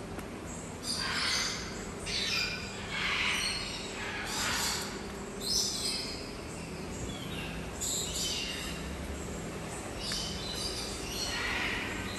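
Birds calling over and over, short loud calls coming about once a second, with a quieter spell in the middle.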